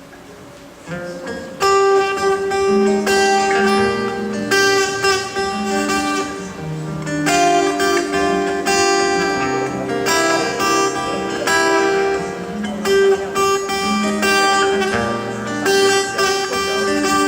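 Strummed guitar music, the instrumental opening of a song, starting about a second in and playing steadily.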